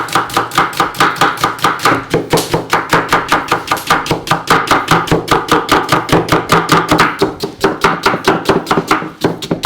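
Kitchen knife chopping fast and evenly on a cutting board, about six strokes a second, with a brief pause about seven and a half seconds in.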